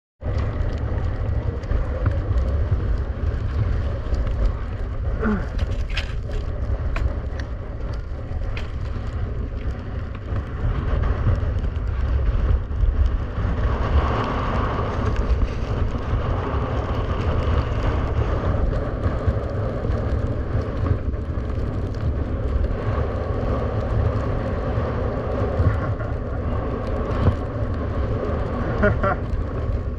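Strong wind buffeting the camera microphone as a steady low rumble, with skis scraping and chattering over rough lake ice during a ski-wing run.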